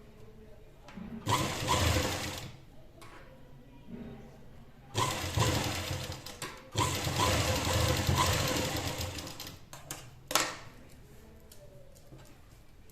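Sewing machine stitching in three runs: a short one, then two longer ones lasting a few seconds each, with a single sharp click near the end.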